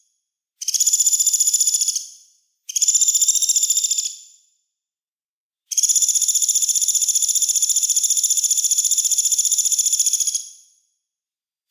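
Songbird's harsh, rapid rasping rattle (a 'besetan' call), in three bursts: two of about a second and a half, then a longer one of about five seconds, each tailing off, with dead silence between.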